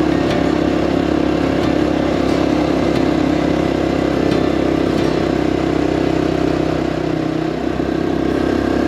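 Honda CT125 Hunter Cub's single-cylinder four-stroke engine running at a steady pace under way, with a short drop and rise in the engine note about seven and a half seconds in.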